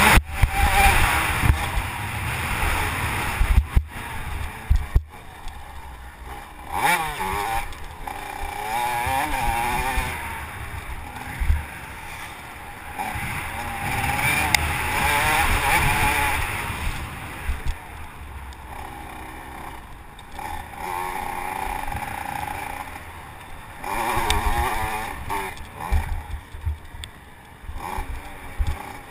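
Motocross bike engine being ridden hard, its pitch rising and falling over and over with each throttle opening and gear change. Wind buffets and bumps knock against the camera microphone underneath.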